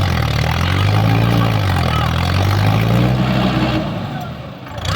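Mahindra Yuvo 415 DI tractor's four-cylinder diesel engine running hard, its pitch rising and falling as it labours to pull a heavily loaded trolley stuck in mud. The sound drops away briefly near the end.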